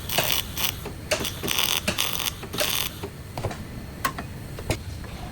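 Workshop handling noises: irregular sharp clicks and knocks mixed with several short scraping or rasping bursts in the first three seconds, then a few isolated clicks.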